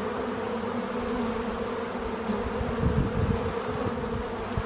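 Honeybees from an open hive buzzing steadily, a dense hum of many bees.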